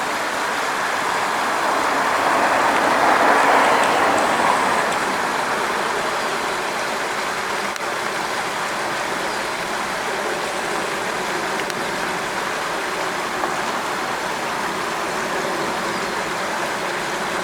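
A stream rushing steadily, running high after a storm. The rush swells for a couple of seconds a few seconds in, then holds even.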